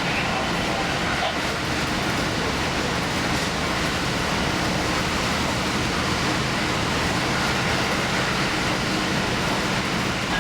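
Steady running noise of a limited express train at speed, heard from inside near the front: an even rumble of wheels on rail and the train's motor, with no change in level.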